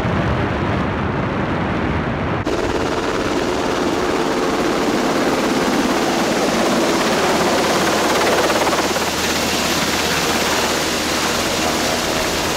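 Military helicopter hovering close overhead: loud, rapid rotor chop mixed with the rotor downwash blasting wind across the microphone. The hiss grows brighter about two and a half seconds in.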